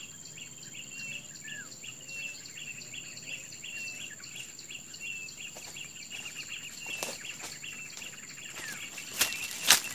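A short, high chirp repeating about three to four times a second over a steady high-pitched insect whine. A few loud sharp knocks come near the end.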